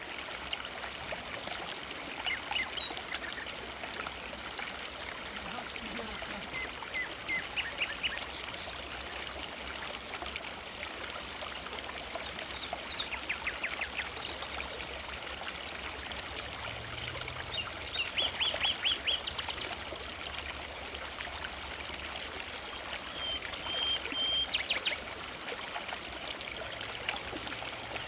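River water flowing in a steady rush, with birds calling over it in short bursts of rapid chirping trills every few seconds.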